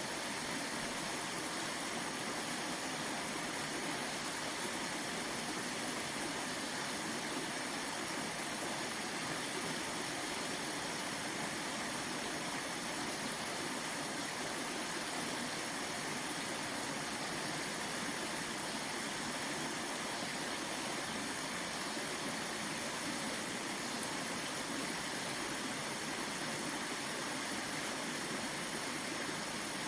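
Waterfall and stream water rushing in a steady, even noise that does not change.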